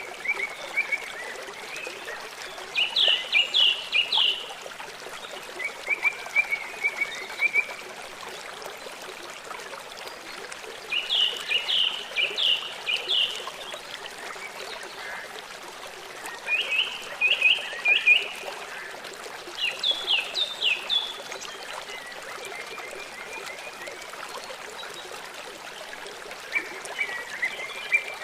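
A songbird singing short phrases of quick, repeated down-slurred notes every few seconds, over the steady sound of running water.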